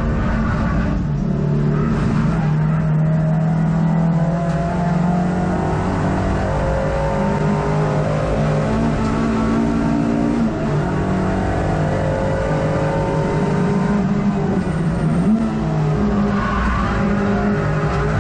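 Hot hatch race car engine heard from inside the cockpit, running hard at high revs under load. Its pitch drops at gear changes, about ten seconds in and again near sixteen seconds.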